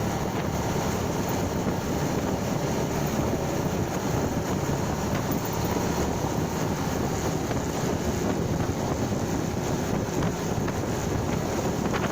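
Motorcycle running at a steady pace while riding, its engine mixed with wind buffeting the microphone.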